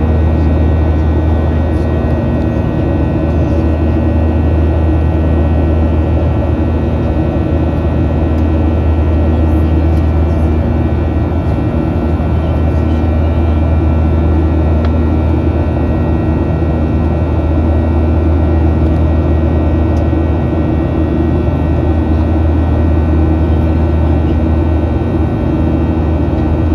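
Steady cabin noise inside a Boeing 737-800 in flight: a deep rumble of airflow and its CFM56-7B engines, with several steady high engine tones over it.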